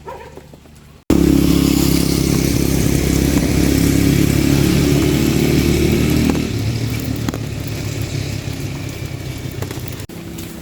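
A vehicle engine running loudly, starting abruptly about a second in; about six seconds in its note drops lower and quieter, and the sound breaks off sharply again near the end.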